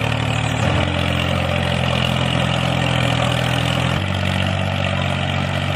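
Homemade mini tractor's motor running steadily. Its pitch drops a little about four seconds in.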